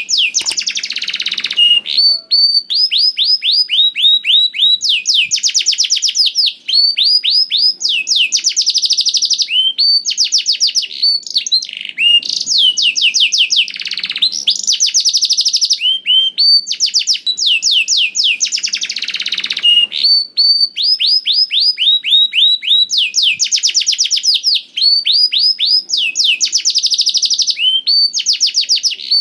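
Domestic canary singing without pause: a long song of fast trills, each phrase a rapid run of repeated downsweeping notes, switching to a new phrase every second or two.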